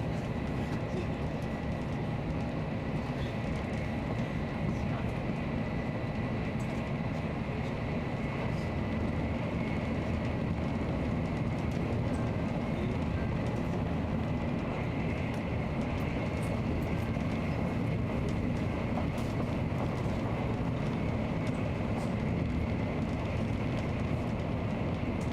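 Nozomi Shinkansen bullet train running at speed: a steady rumble with a faint, steady high whine over it.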